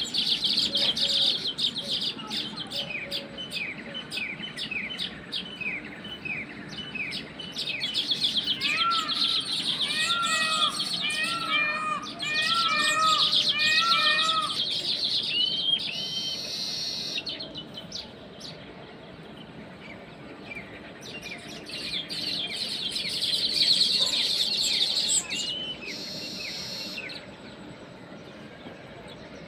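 Small songbirds chirping and calling in rapid, dense series of high chirps. About a third of the way through comes a run of repeated, arched whistled notes, several per second.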